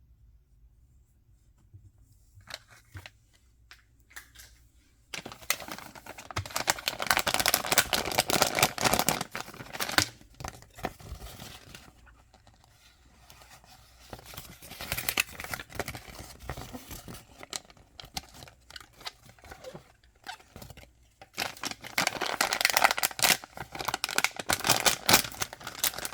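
Blind-box toy packaging being torn open and crinkled by hand, in three spells of dense crackling, the first starting about five seconds in, another in the middle and the loudest near the end, with lighter rustling and small taps between.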